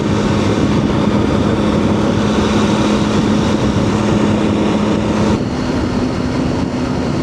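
Triumph Tiger 800's three-cylinder engine running steadily while riding, under heavy wind and road noise; its note steps slightly higher a little over five seconds in.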